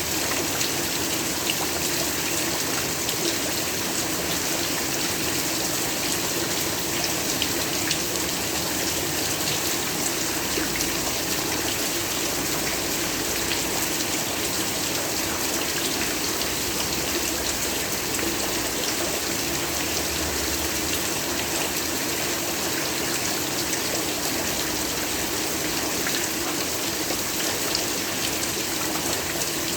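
Heavy rain falling steadily: a dense, even hiss with fine scattered drop ticks and no let-up.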